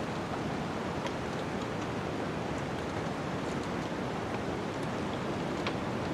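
Steady rushing wind of a snowstorm with a wood fire crackling, a few sharp pops standing out above it, one about a second in and the clearest near the end.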